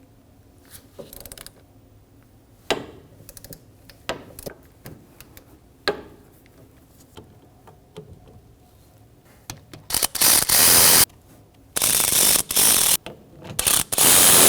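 Ratchet with an E14 external Torx socket breaking loose and backing out the rear hub-and-bearing bolts: scattered clicks and knocks at first, then, from about ten seconds in, loud bursts of rapid ratchet clicking as the bolts are spun out.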